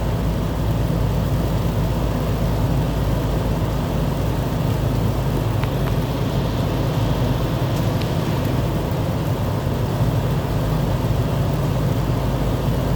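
A vehicle engine running steadily, a constant low rumble with no change in pace.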